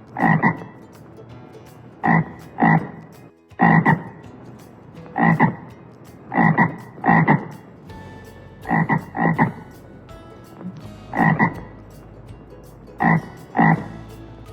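A frog croaking in short, loud calls, mostly in quick pairs, a pair every second or two.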